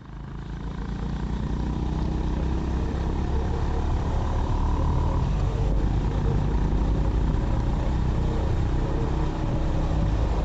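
Honda CB350RS's air-cooled single-cylinder engine running steadily on the move, with road and wind hiss, fading in over the first second or so.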